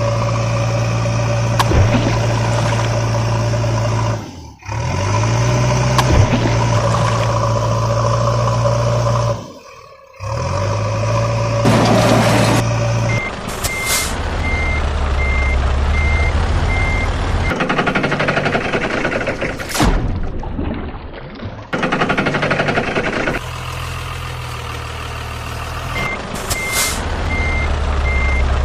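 Truck engine running steadily, cutting out briefly twice, then a short hiss. From about halfway a truck's reversing beeper sounds in a steady repeating beep, stops for a while, and starts again near the end.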